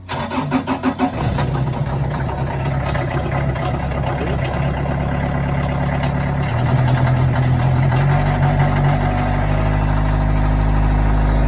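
Diesel engine of a Morooka tracked dump truck cranking with a rapid pulsing for about a second, catching, and settling into a steady run that picks up speed a little past halfway.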